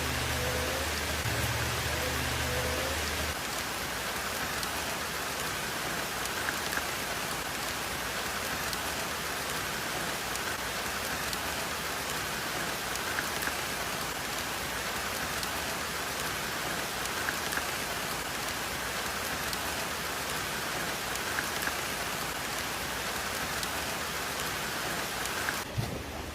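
Steady, dense hiss of falling or rushing water, like heavy rain on a surface. A low hum underneath stops about three seconds in.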